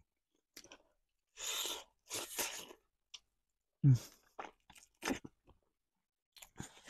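Close-miked chewing and crunching of a cheesy baked crust, in two short bouts with small wet mouth clicks after them.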